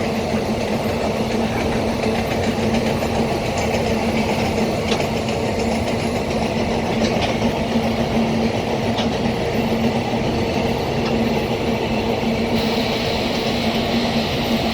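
Freight train rolling past: a steady rumble of wheels on the rails with a steady low hum and occasional faint clicks.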